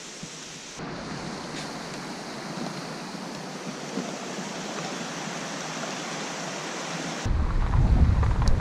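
Waterfall rushing: a steady hiss of falling water that shifts in tone about a second in. Near the end a much louder low rumble abruptly takes over.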